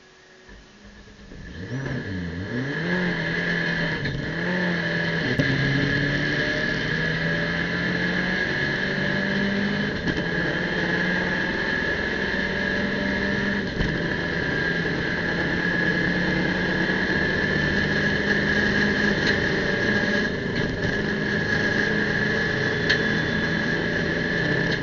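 Abarth race car's turbocharged four-cylinder engine, heard from inside the cockpit. It comes in about two seconds in, its revs climbing and dropping through quick gear changes, then runs steadily at high revs under full throttle, with a constant high whine above the engine note.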